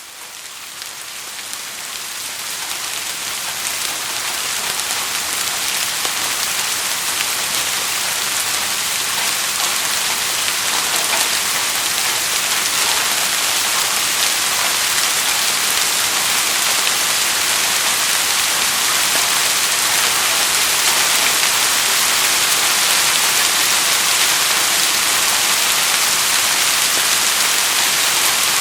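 Steady rain: a dense hiss of falling drops with a fine patter in it. It fades up over the first few seconds, then holds even.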